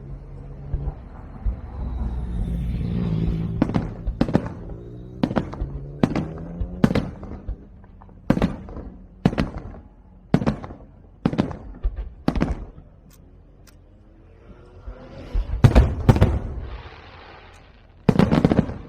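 A series of sharp, loud bangs about a second apart, each with a short ringing tail, then two louder clusters of bangs near the end.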